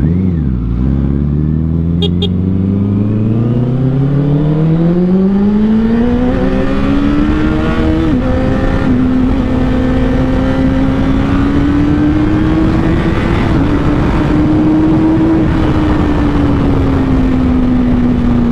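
2013 Honda CBR1000RR Fireblade's inline-four with an aftermarket Taylormade exhaust, under way on the road. After a short dip at the start, the engine note climbs steadily for about eight seconds, drops briefly at a gear change, holds high, then eases off near the end. Wind noise runs under it.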